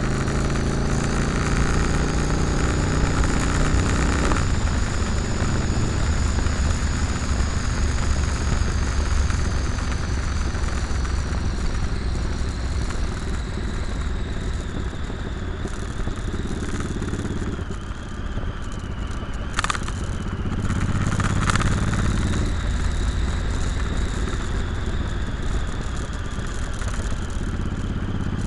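Motorcycle engine running while riding, its pitch falling about four seconds in and shifting gently after that, with two short sharp clicks about two-thirds of the way through.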